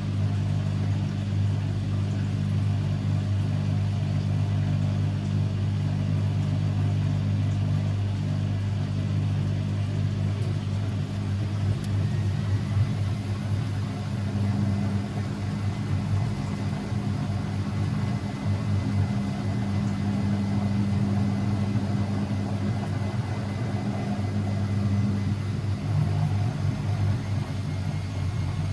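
Constructa Energy 1000s washing machine running: a steady low motor hum, with a faint high whine joining about halfway through and rising slightly in pitch.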